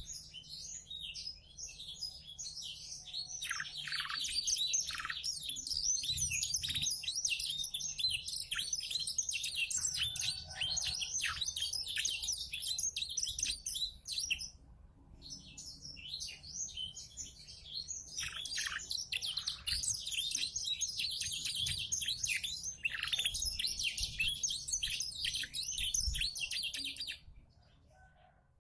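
Domestic canary singing a long, fast, high-pitched warbling song filled with learned blackthroat (black-throated canary) phrases. The song breaks off briefly about halfway, then resumes and stops shortly before the end.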